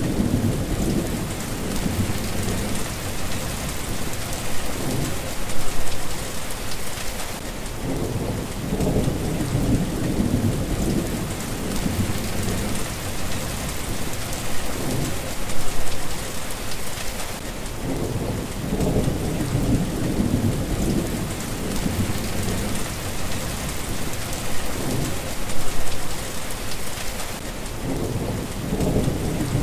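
Steady rain hissing, with low rumbles of thunder that swell and fade every few seconds. The pattern repeats about every ten seconds.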